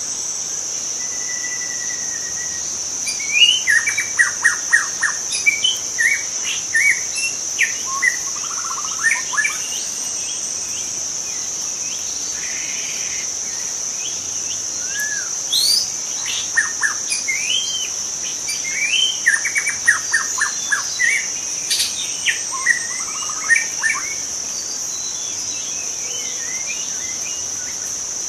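Young white-rumped shama singing: quick runs of varied whistles and fast stuttering trills, coming in two long spells with a pause between, over a steady high-pitched insect drone.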